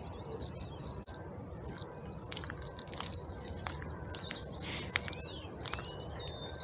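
Small birds chirping and twittering, with short rising and falling notes and quick repeated calls, over a steady low background noise.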